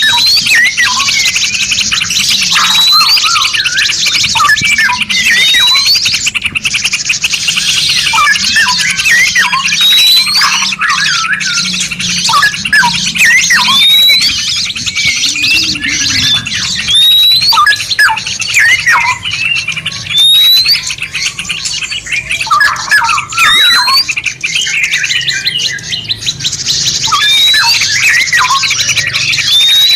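Several songbirds singing and calling over one another in a dense, continuous chorus of chirps, trills and whistles, as layered in a masteran tutor recording for caged songbirds. A clear rising whistle recurs every two to three seconds above the chatter.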